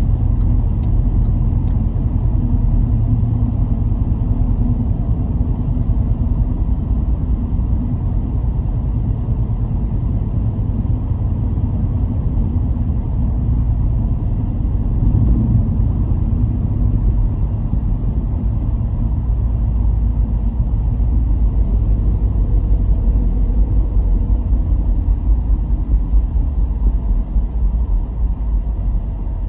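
A car driving along a road: a steady low rumble of engine and tyre noise, swelling slightly about fifteen seconds in.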